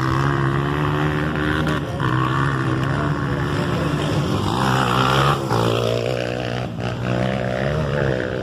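Motocross motorcycle engines running hard on the track, the revs climbing and dropping again and again as the riders work the throttle and gears.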